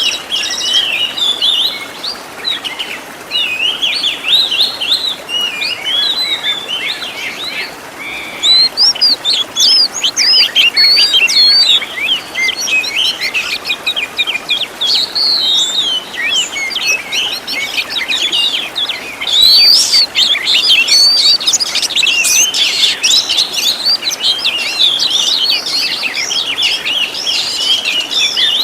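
Oriental magpie-robin (kacer) singing a fast, varied song of loud chirps, whistles and trills, packed with mimicked fill-in phrases, broken by a few brief pauses.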